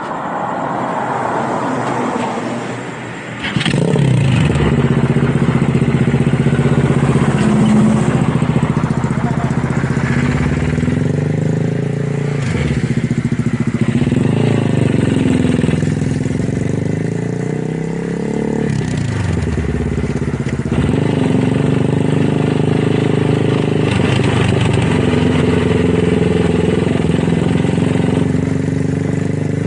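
Motorcycle engine started about three and a half seconds in, then idling with several short revs whose pitch rises and falls back: an exhaust sound check.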